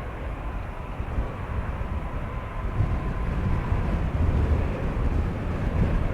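Jet airliner engine rumble mixed with wind buffeting the microphone, with a faint steady whine that fades out about two seconds in; the rumble grows louder from about three seconds in.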